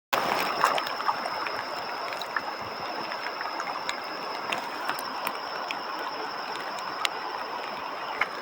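Steady rush of flowing river water, with a thin continuous high-pitched whine and scattered faint ticks over it.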